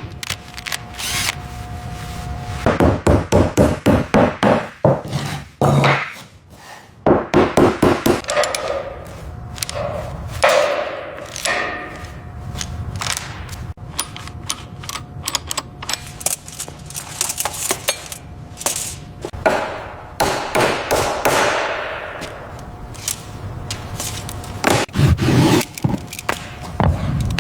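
Hand tools at work, knocking and scraping: runs of quick knocks, several a second, alternate with rubbing and scraping.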